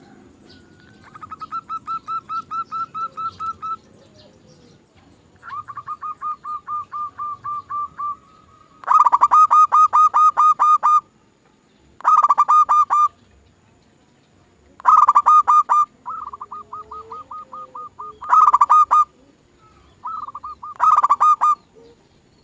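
Zebra doves (perkutut) calling in repeated bursts of rapid rolling notes, each burst lasting one to two seconds. Some bursts are quieter and others much louder, as if more than one bird is singing.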